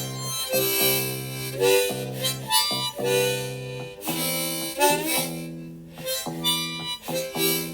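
Harmonica playing a melodic blues-style solo over a light accompaniment, a run of short notes and a few held ones, in an instrumental break of a song.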